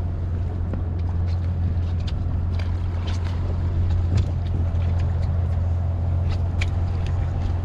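Boat engine idling with a steady low hum, with scattered light clicks and knocks from the deck.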